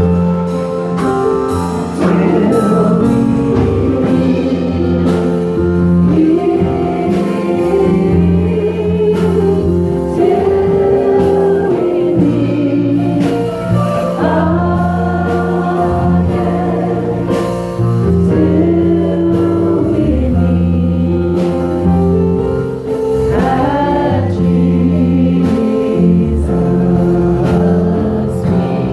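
Gospel song: voices singing over a band with a steady bass line and regular drum hits.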